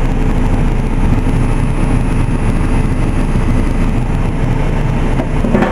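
Carrier Infinity GreenSpeed 25VNA inverter heat pump's outdoor unit running steadily in cooling mode: a dense, low-heavy rush of fan air with a faint steady hum.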